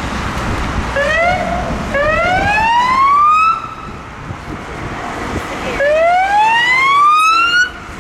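Fire engine siren sounding in rising sweeps: a short blip about a second in, then two long rising wails, each cut off suddenly, over traffic noise.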